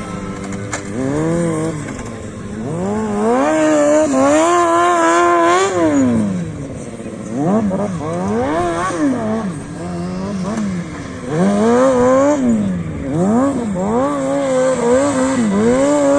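Motorcycle engine revving up and down again and again, its pitch climbing, holding briefly, then dropping, about half a dozen times.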